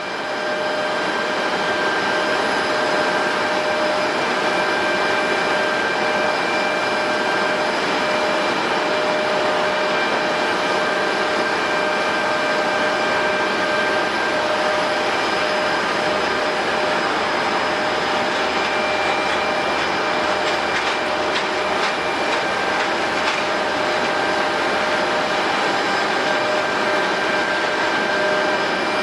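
Airbus A350's Rolls-Royce Trent XWB jet engines running, a steady, loud rush with several high whining tones held level throughout.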